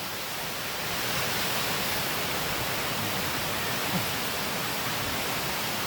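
Waterfall rushing close by, a steady, even noise with no breaks.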